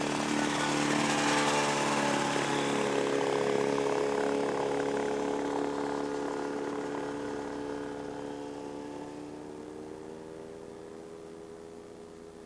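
Pterodactyl ultralight airplane's two-stroke engine and propeller running at a steady drone, growing fainter over several seconds as the aircraft moves away.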